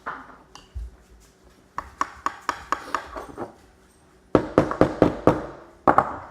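A hammer tapping nails into the wooden parts of a children's airplane kit: a first run of quick, ringing taps about two seconds in, then a louder run near the end, about four or five taps a second.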